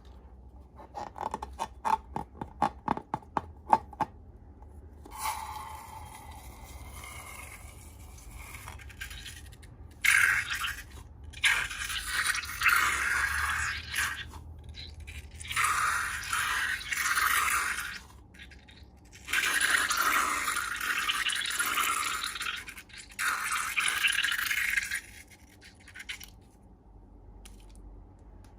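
Close-up slime-making handling sounds: a quick run of sharp clicks, a few squeaky glides, then a series of long scraping bursts, each a second or more.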